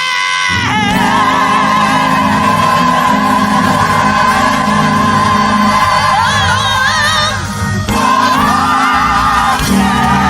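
Live gospel music: a female vocalist holding long notes with vibrato and melismatic runs over a band accompaniment, with the instruments dropping out briefly near the end.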